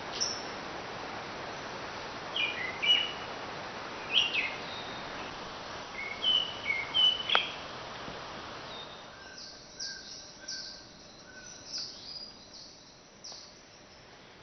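Wild birds calling in rainforest: groups of short chirping notes over a steady hiss. The hiss fades about two thirds of the way through, and quicker, higher-pitched chirps follow.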